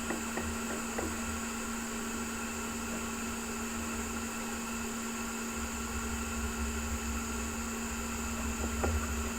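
A steady machine hum and whirr, with a constant mid-pitched tone and a low hum underneath, and a few faint clicks.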